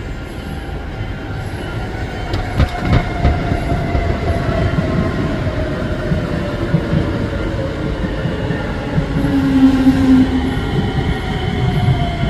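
Six-car MRT train pulling into the station, running noise growing louder as it draws alongside. Its motor whine falls slowly in pitch as it slows, with a few sharp wheel clacks about two to three seconds in and a higher whine coming in near the end.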